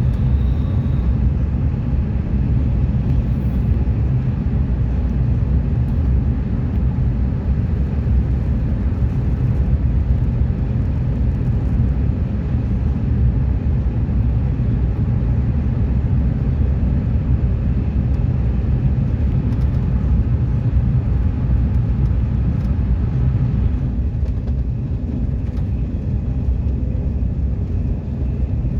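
Train running: a steady low rumble of wheels and running gear on the track.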